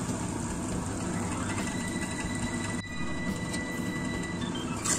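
Blended shallot, garlic, onion, candlenut and dried-shrimp spice paste sizzling and bubbling steadily in oil in a wok, cooked through until the oil has separated out. A short sharp click near the end.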